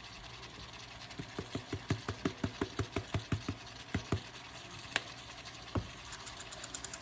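Knife chopping on a cutting board: a quick, even run of about fifteen chops, then a sharp clack and one more knock.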